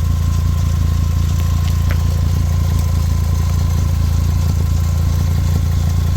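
Volkswagen Jetta engine idling steadily, with a leaking exhaust. The owner traces the leak to the exhaust joint up near the manifold.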